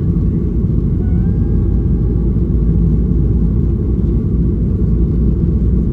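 Steady low rumble of a jet airliner's engines and airflow heard from inside the passenger cabin.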